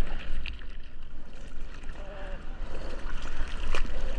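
Sea water sloshing and splashing right at a GoPro as the surfer sits or paddles on his board, with a steady low rumble of water and wind against the microphone and scattered small splashes.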